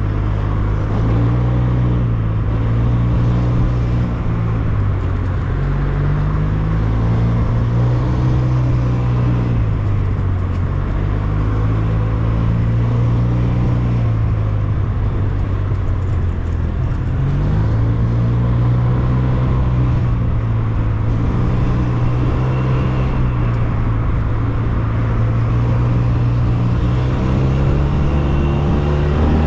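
SYM Maxsym TL 508 maxi-scooter's parallel-twin engine running while riding, its note rising and falling again and again with the throttle, over a steady rush of wind and road noise.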